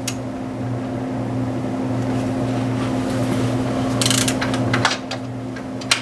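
Metal tool clicks from a wrench or ratchet on a bolt under the alternator's tensioner pulley: a quick run of clicks about four seconds in and a single click near the end, over a steady low hum.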